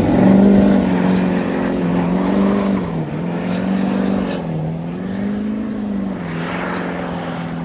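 A vehicle engine running close by, its pitch rising and falling in a series of light revs, then settling to a steady run near the end.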